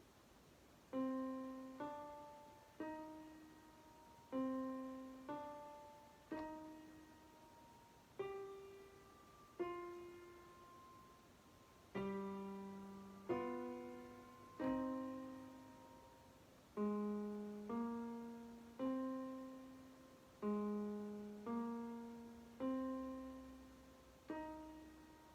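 Piano playing a slow, simple beginner's piece: single notes and two-note intervals struck about once a second, each left to ring and fade before the next.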